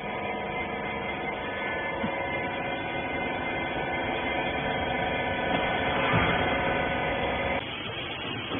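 Wiper rag baler's motor running with a steady, many-toned hum that cuts off suddenly about seven and a half seconds in.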